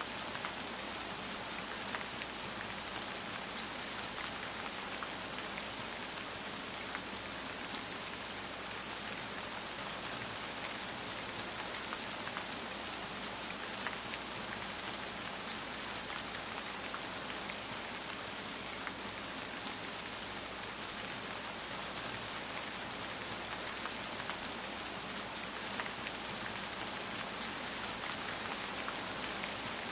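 Steady rain falling on a surface, a dense even hiss of drops with scattered individual drop ticks.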